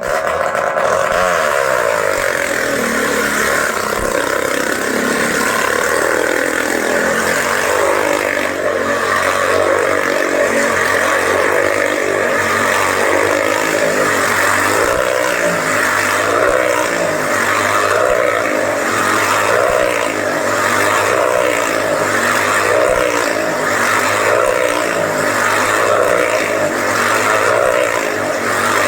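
Motorcycle engines running loud and continuously as the bikes circle inside a steel cage, their pitch rising and falling in a steady cycle a little more than once a second as each loop passes.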